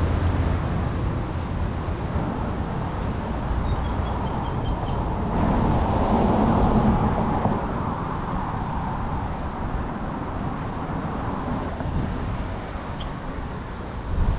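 Steady outdoor background noise with no single clear source, swelling a little about six seconds in.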